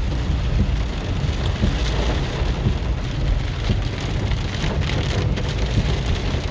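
Heavy rain pelting a moving car, heard from inside the cabin as a steady patter of many small ticks over a constant low rumble of the car on the wet road.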